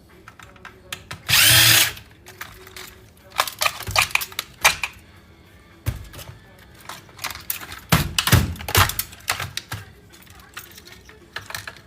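A power drill whirs once, briefly, about a second in, followed by a series of metallic clicks and clatters as scrap electronics parts are handled and pulled apart.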